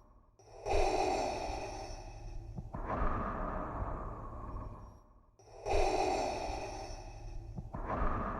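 Darth Vader's mechanical respirator breathing: slow, hissing breaths through a mask, in and then out. Each breath lasts about two and a half seconds, and the cycle repeats about every five seconds.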